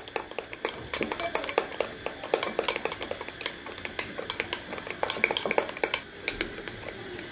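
A spoon beating instant coffee, sugar and water against the side of a small bowl, a quick, irregular run of clinks and taps as the mixture is whipped into a thick froth.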